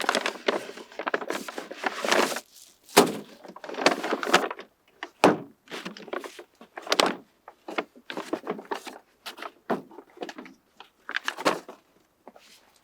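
Irregular knocks, thuds and rustling of objects being handled and set down, in uneven bursts with short pauses between them.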